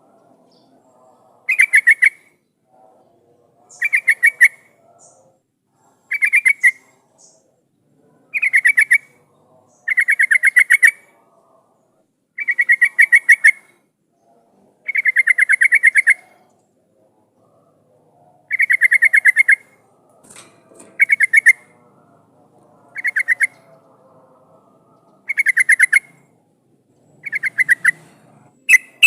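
Yellow-vented bulbul (trucukan) in full song: short, bubbling phrases of rapid notes, about a dozen of them, one every two seconds or so.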